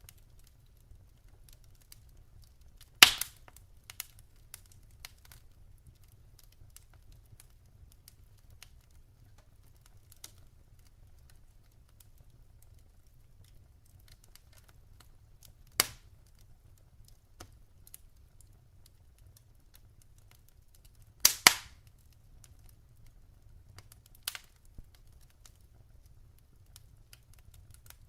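Burning logs in a fireplace crackling, with faint scattered ticks and a few sharp pops: a loud pop about three seconds in, another past the middle, and a quick double pop about three-quarters through, over a low steady rumble.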